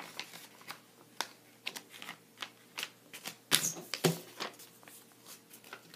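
Thick paper being folded and creased by hand: irregular crackles and taps, busiest a little past halfway.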